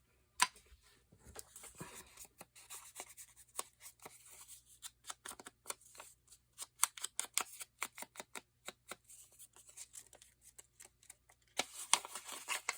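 Paper and cardstock being handled on a craft table: irregular light clicks and taps, with a denser stretch of rustling near the end.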